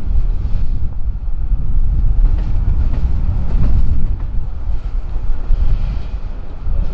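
Freight train rolling by with a steady low rumble and faint clicks of wheels over rail joints, wind buffeting the microphone.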